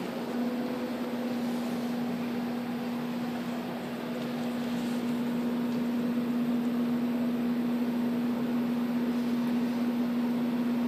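A steady machine-like hum on one low pitch, with a fainter overtone, over an even hiss that holds the same level throughout.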